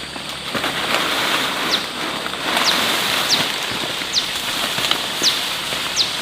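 A steady hiss, with a bird repeating a short, high, falling call about once a second.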